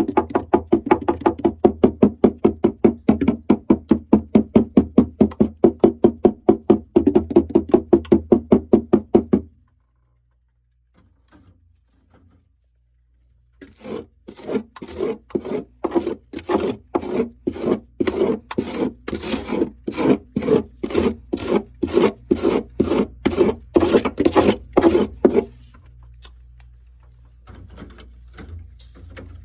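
Frost crunching in quick, rhythmic strokes, about three a second. The strokes stop for a few seconds about a third of the way in, start again, and end with a few seconds still to go.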